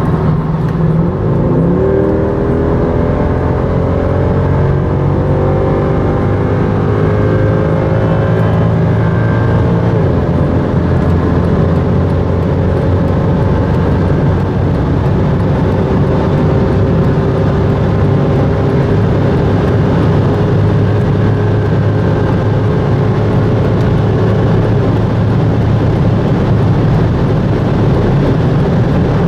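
Mercedes-Benz C63 AMG (W204) 6.2-litre V8 heard from inside the cabin at full-throttle acceleration. The engine note jumps up about a second in, climbs steadily, drops with an upshift about ten seconds in, then climbs slowly again over loud road and wind noise.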